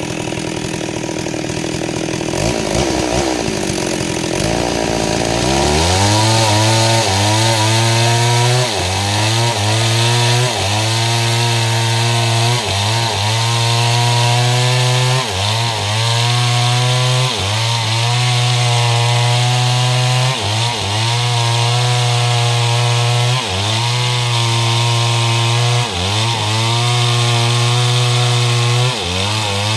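STIHL MS 382 two-stroke chainsaw ripping lengthwise through mahogany. Its engine note wavers for the first few seconds, then rises to a steady full-throttle pitch, dipping briefly and recovering about every two seconds as the chain takes load in the cut.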